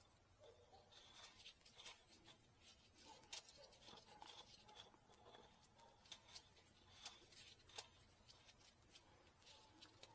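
Near silence with faint, scattered small clicks and rustles of handling.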